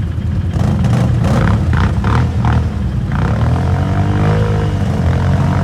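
ATV engine running, with clattering in the first half; about three seconds in, the engine is revved up and back down.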